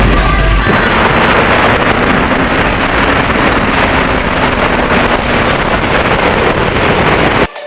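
Heavy wind rush on the microphone with a motorcycle running underneath while riding. It cuts off abruptly near the end.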